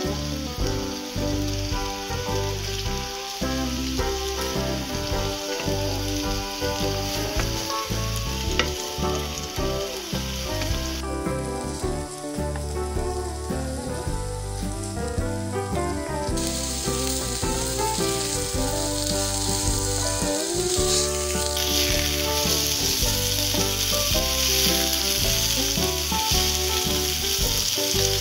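Chicken-and-zucchini patties sizzling in hot oil in a non-stick frying pan as they are turned with a wooden spatula. The sizzle thins out for a few seconds near the middle and comes back stronger toward the end.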